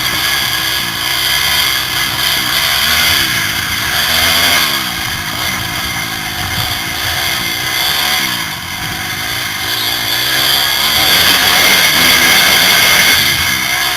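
Motocross bike engine revving up and down repeatedly as the bike rides the track, picked up by a helmet camera's microphone over a constant rush of noise. It eases off briefly about two-thirds of the way through, then builds again.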